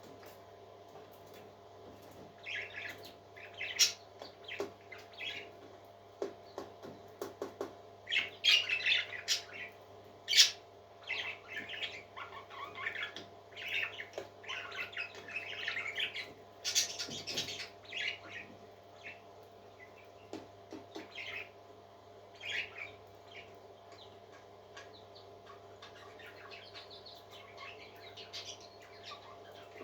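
Parrots squawking and chirping in short, irregular calls, busiest in the middle and thinning out after about twenty seconds, over a steady low hum.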